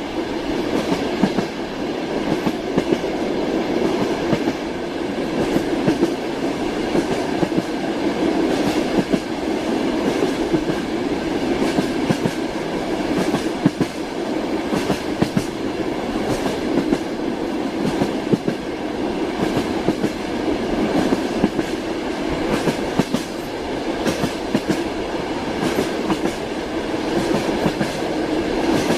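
Moving train's wheels clattering on the rails: a steady rolling rumble with frequent, irregular clicks and knocks from the wheels over the track.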